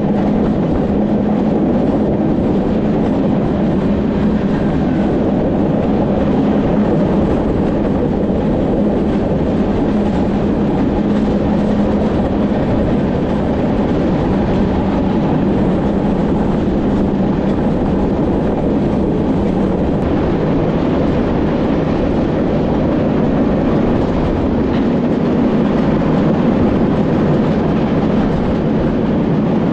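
A train running steadily, heard from the cab: a loud, even rumble of wheels on rail with a steady low hum underneath.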